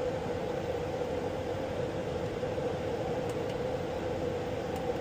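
Steady drone inside an aircraft cockpit from the running APU and its bleed air: an even rushing noise with a constant whine, while the engines are still shut down before start.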